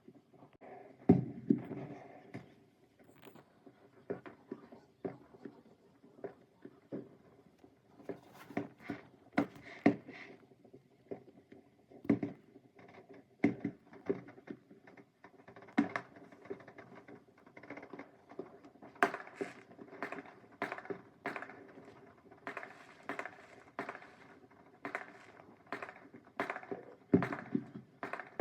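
Fireworks going off: a long, uneven string of sharp pops and bangs, the strongest about a second in, coming thicker and faster in the second half.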